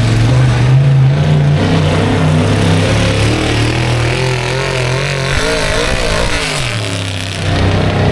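Pulling truck's engine running hard at high revs under load on a truck-pull track, its pitch wavering, then falling away about six to seven seconds in.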